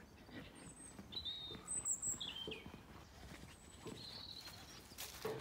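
A few short, thin bird chirps, one sliding down in pitch, over faint low knocks and rustles.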